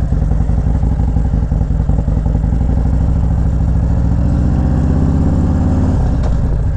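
Motorcycle engine running under way, its revs climbing steadily for a few seconds, then dropping suddenly near the end.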